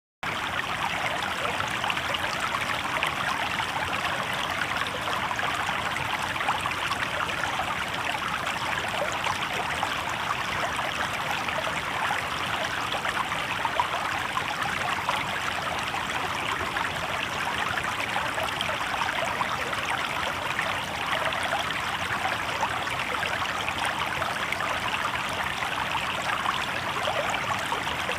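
Shallow river water babbling steadily over stones, an even, unbroken rush of water.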